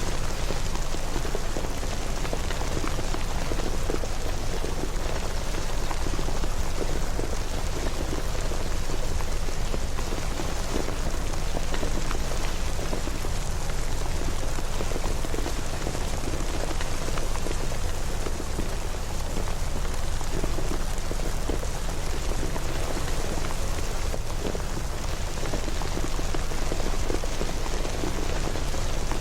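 Steady rain falling, a dense even patter of drops with a deep low rumble underneath.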